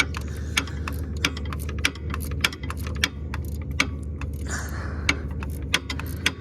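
Evenly spaced metallic clicking, about three clicks a second, over a steady low hum, as a long bolt is worked out of the machine with a hand tool or drill.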